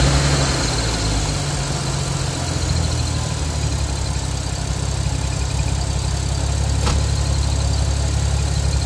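Nissan R33 Skyline GTS25t's turbocharged straight-six idling steadily with a low drone, with a faint high whine on top. A single sharp click about seven seconds in.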